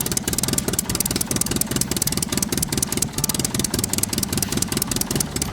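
Vehicle engine running steadily with a fast, even chugging.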